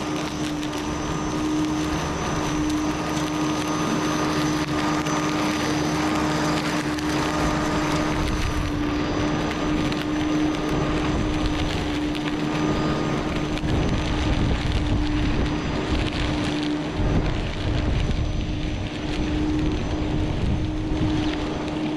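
Corded Flymo electric lawn mower running with a steady motor whine while cutting through long, overgrown grass. The sound gets fuller and rougher from about eight seconds in.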